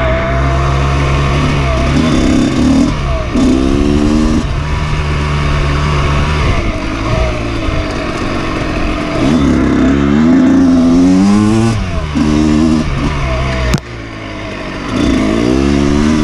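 Dirt bike engine revving, its pitch climbing under acceleration and falling back several times. About three-quarters through there is a sharp click, and the engine briefly drops.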